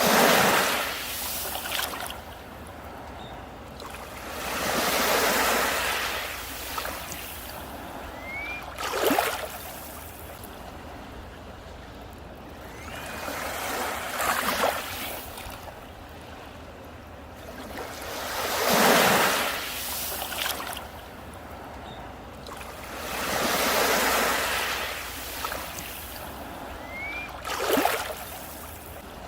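Ocean waves breaking and washing onto a beach, one surge about every four to five seconds. Three faint, short rising chirps come in between the waves.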